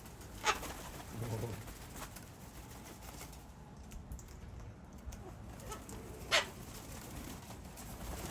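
Corellas and a sulphur-crested cockatoo calling: two short, sharp squawks, one near the start and one about six seconds in, over fainter bird calls.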